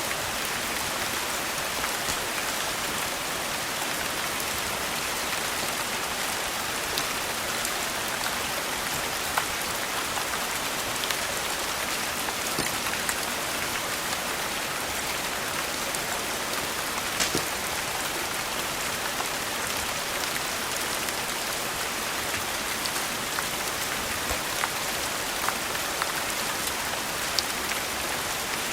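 Steady rain hiss, with scattered sharp crackles from a wood fire every second or two.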